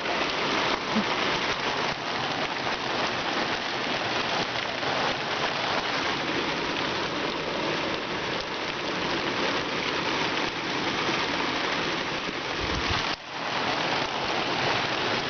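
Heavy rain pouring down steadily in a thunderstorm, with a brief lull about thirteen seconds in.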